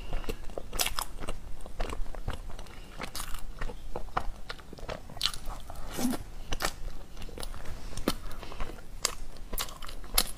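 Close-miked chewing of soft, heated chocolate-filled bread: irregular mouth clicks and smacks.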